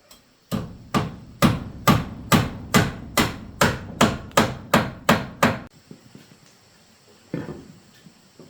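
Hammer striking wood in a steady run of about a dozen blows, roughly two a second, which stops suddenly; one more blow follows near the end.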